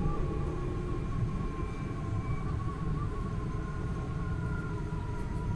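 Passenger train running, heard from inside the carriage: a steady low rumble with a thin, slightly wavering whine above it.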